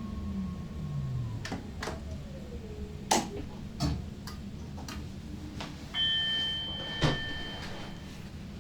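Electric multiple unit's traction whine falling in pitch as the train slows, followed by a string of sharp irregular clicks. Near the end, a steady two-tone electronic beep sounds for about two seconds.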